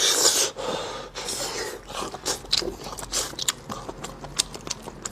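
Close-miked chewing of braised pork leg: irregular smacking clicks of the mouth, many in quick succession, over steady chewing.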